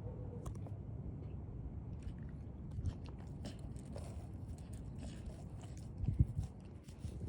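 A puppy chewing and biting on a raw meat patty: a run of small crunching, smacking bites, with a few louder knocks about six seconds in.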